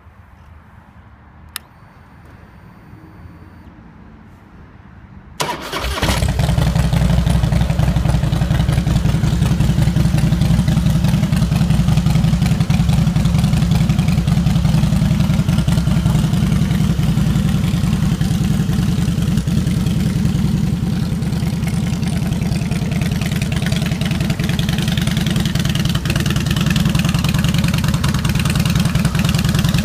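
2004 Harley-Davidson Fat Boy's fuel-injected Twin Cam 88B V-twin being started: a click about a second and a half in, then about four seconds later the starter cranks briefly and the engine catches. It then idles steadily and loudly through stock-style chrome exhaust.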